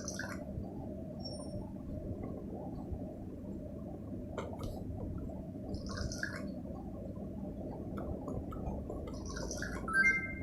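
A baby making a continuous throaty, gurgling vocal sound, with brief higher squeaks about six seconds in and a louder one near the end.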